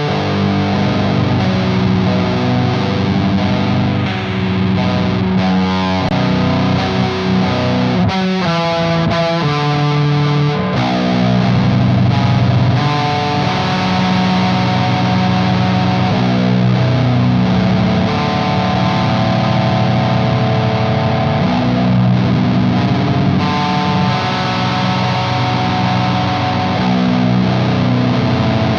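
Electric guitar with passive pickups, tuned to B standard, played through a Frost Giant Electronics The Mountain overdrive/distortion/fuzz pedal into a Sunn Beta Lead amp: a heavy, saturated doom riff of held low chords. There is a quicker run of picked notes about eight seconds in.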